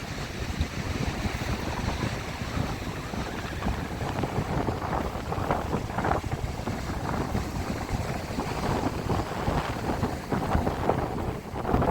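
Strong wind buffeting the microphone: a steady, gusty rumble with no let-up.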